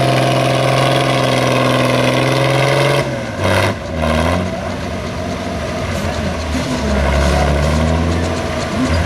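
Modified pulling tractor's engine running loud at high, steady revs, then cut off abruptly about three seconds in. Lower engines idle and rev up and down after it.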